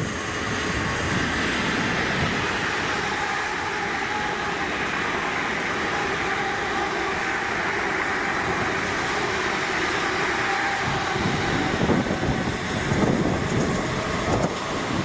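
Electric train running past on the line: a steady wheel-on-rail rumble with a faint hum in it.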